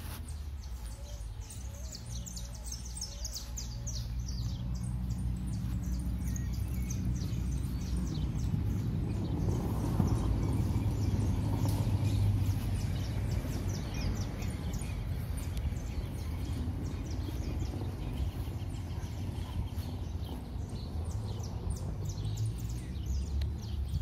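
Songbirds chirping, many short high calls in quick succession, thickest in the first half and sparser later. Underneath is a low rumbling noise that grows louder around the middle.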